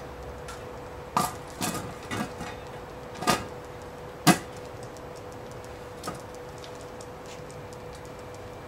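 About six scattered knocks of hard objects being handled or tapped, the loudest about four seconds in, over a faint steady hum.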